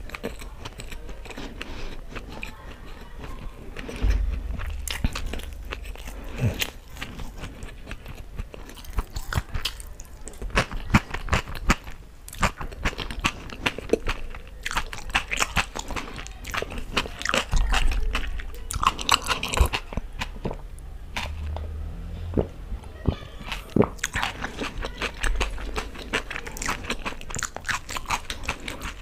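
Close-miked chewing of a mouthful of chutney-soaked pakoda chaat: wet mouth smacks and crunching bites, many sharp clicks in quick succession. A few dull low thumps come in between.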